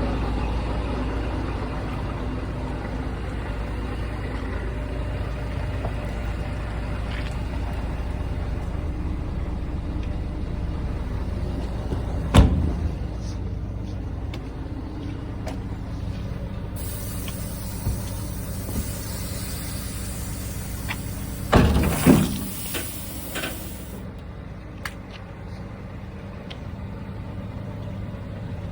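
Scania R420 truck's inline-six diesel engine running steadily at low revs. A sharp burst of air about twelve seconds in and two loud air-brake hisses a little after twenty seconds, with a hissing rush of air around them.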